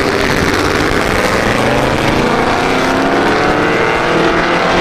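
Vehicle engine accelerating, its pitch rising steadily as it revs up.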